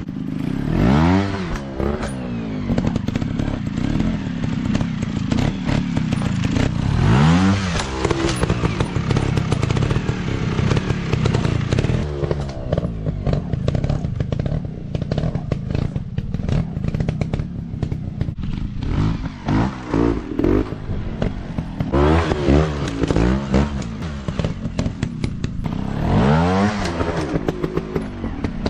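Small-displacement dirt bike engines revving up and dropping back again and again, the pitch sweeping up and down every few seconds, with many short knocks and rattles throughout.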